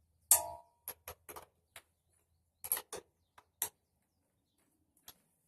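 Irregular metal clicks and clinks from a 7/16 ratcheting wrench working a battery terminal bolt. The first clink is the loudest and rings briefly, followed by about a dozen lighter clicks spread over the next few seconds.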